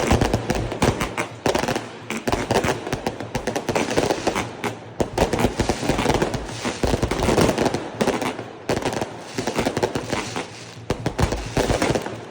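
Fireworks going off in a dense, unbroken run of rapid bangs and crackles, many reports a second, with no pause.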